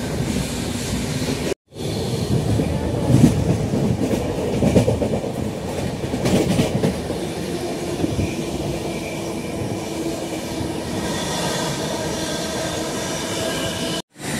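Passenger train coach running on the track, heard from inside: a steady rumble with irregular clattering knocks, loudest between about three and seven seconds in. The sound drops out abruptly for a moment twice.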